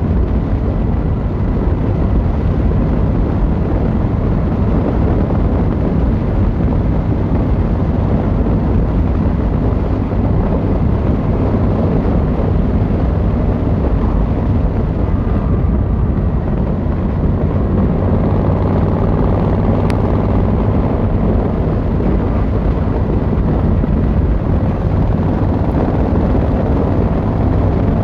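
Yamaha XVZ1300 Royal Star's V4 engine and exhaust running steadily under way at an even cruising pace, with the note swelling slightly a little past halfway.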